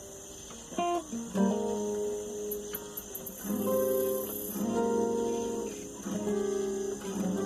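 Acoustic guitar playing: chords strummed and let ring, changing every second or two.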